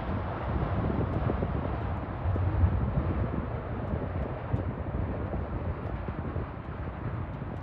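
Distant rumble of a Hankyu electric train crossing a steel truss railway bridge, slowly fading.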